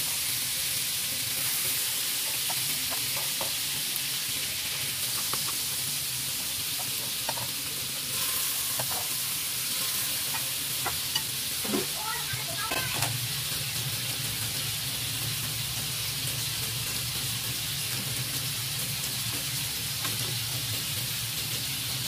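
Chicken wings frying in butter in a shallow pan: a steady sizzle, with a cluster of sharp crackles and taps about halfway through as more wings go into the hot fat.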